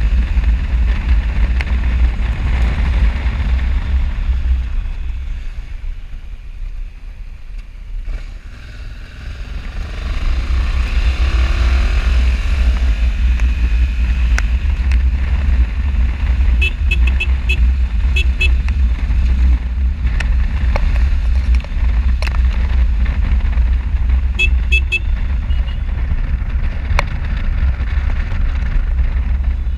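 Motorcycle riding on the road, heard through an action camera's microphone: a steady deep wind rumble over the engine, easing briefly a few seconds in. Short high-pitched tones come in small groups twice past the middle.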